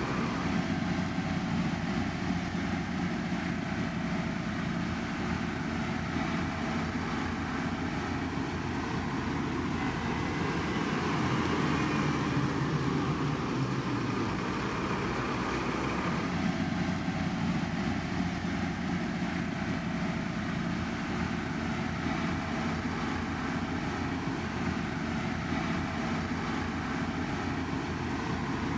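Heavy road construction machinery running steadily, a continuous engine and machine drone without breaks.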